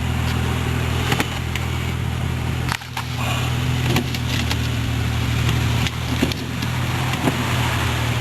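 A 2003 Toyota Matrix XRS's 1.8-litre four-cylinder engine idling steadily, cold and just jump-started from a dead battery. A few short clicks and knocks sound over it.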